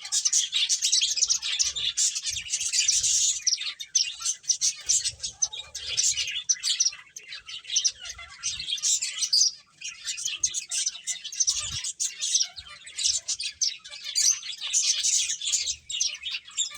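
Pet finches chirping: a dense stream of rapid, high, overlapping chirps from several birds, with a brief lull about ten seconds in.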